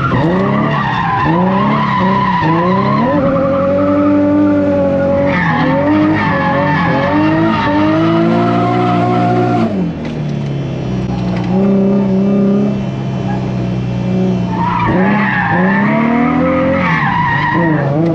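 Turbocharged Nissan VQ V6 drift car driven hard sideways, the engine revving up and down with tyres skidding. The revs fall away about ten seconds in, hold lower and steadier, then climb again near the end.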